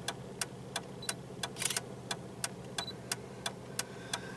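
A vehicle engine idling with a steady low hum, overlaid by sharp, evenly spaced clicks about three times a second.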